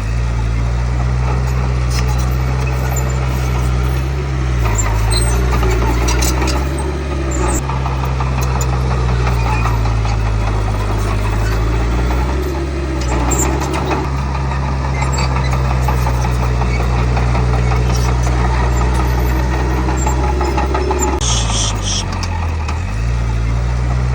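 Diesel engine of a Komatsu D31P bulldozer running steadily under load, its pitch dipping and picking up again a few times as the engine speed changes. A few faint clanks are mixed in.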